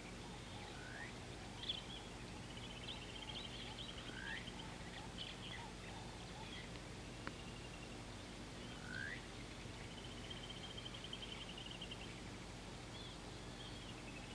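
Wild birds calling: short rising whistles every few seconds and fast trilling rattles, with a few sharp chirps, over a steady low hum.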